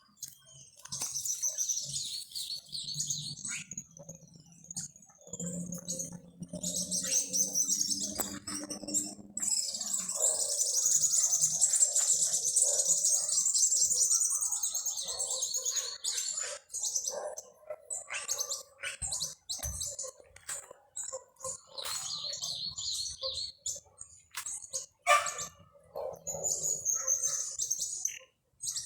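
Small songbirds chirping and twittering, many short high calls and trills, busiest and loudest about ten to fifteen seconds in.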